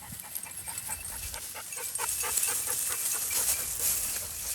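Hunting dog panting hard in quick, even breaths, several a second.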